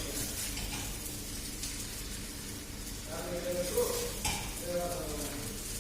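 Chicken chow mein sizzling as it fries in a pan and is stirred, with a few knocks and scrapes of the utensil against the pan, about four seconds in the loudest.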